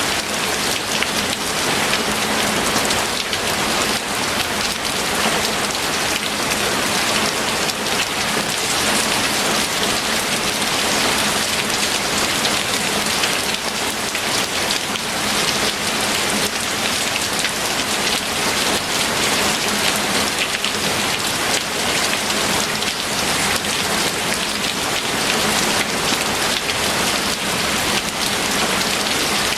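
Steady rain falling: an even, dense hiss of many drops that holds constant throughout.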